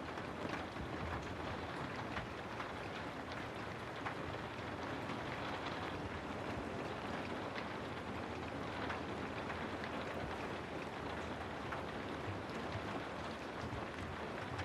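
Steady rainfall, with many individual drops tapping close by throughout.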